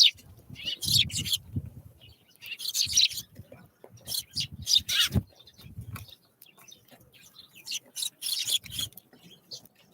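Small wild birds giving short, high chirps and calls again and again, with a few soft low thumps in between.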